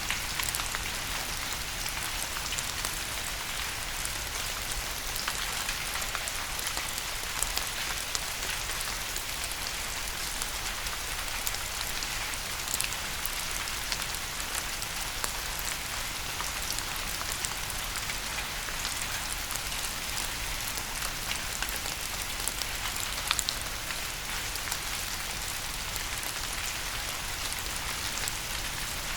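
Steady rain falling, a dense even hiss with many separate drop ticks scattered through it.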